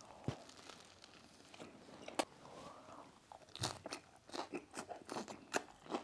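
Biting and chewing a homemade egg McMuffin (English muffin, fried egg, turkey bacon): faint mouth clicks and smacks, sparse at first and coming thicker from about halfway through.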